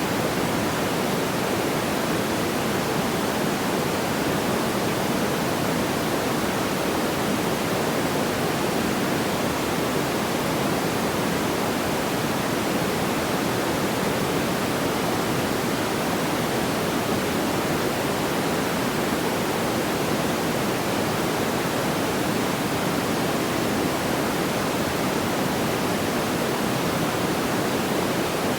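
Steady, unchanging noise like pink noise, a soft even rush strongest in the low-middle range, with no crackles or pops.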